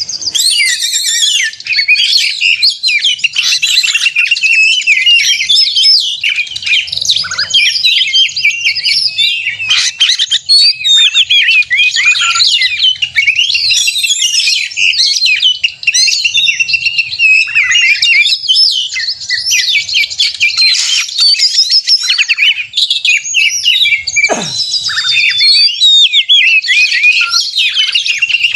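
Oriental magpie-robin (kacer) singing loudly and without pause: a rapid, varied stream of whistles, trills and chattering phrases. It is the agitated, nonstop 'konslet' song of an excited bird, the kind played as a lure to set other magpie-robins singing.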